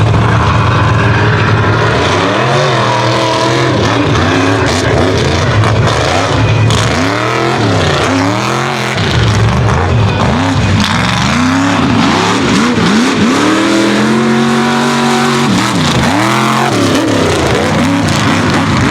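Unlimited-class mega truck engine revving hard, the revs climbing and dropping again and again under racing load.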